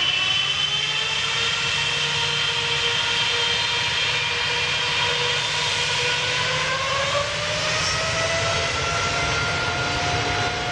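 Several small electric toy motors whining steadily at once, their pitches drifting slowly up and down.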